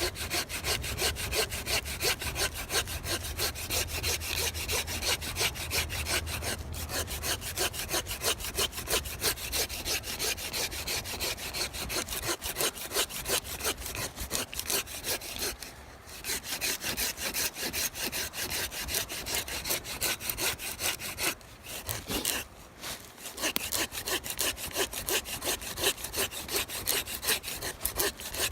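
A hand saw cutting through wood in steady, rapid back-and-forth strokes, pausing briefly twice.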